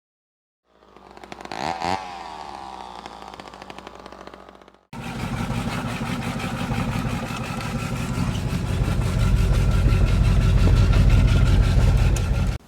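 Engine sounds in two cuts: first an engine passing by, its pitch shifting about two seconds in, then after an abrupt cut a louder engine running steadily, growing louder about nine seconds in and cutting off suddenly at the end.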